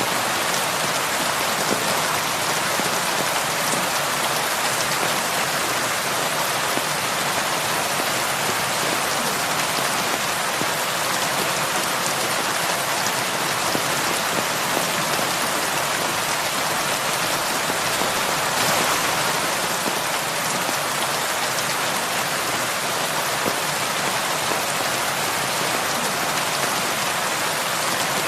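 Heavy rain falling steadily, a dense even hiss with faint individual drops.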